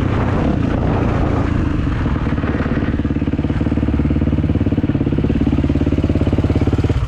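Kawasaki motocross bike engine idling with an even, fast pulse, cut off abruptly at the very end.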